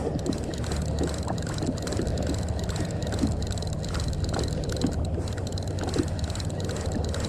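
Water lapping and sloshing against a kayak hull, with irregular small splashes over a steady low wind rumble on the camera microphone.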